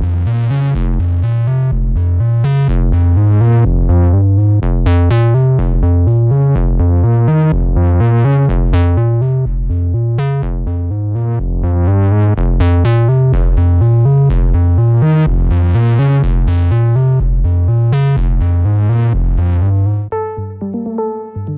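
Electronic music: a pulsing synth bass loop played through an SSL Fusion analog processor. About 20 s in it gives way to a sparser synth lead line.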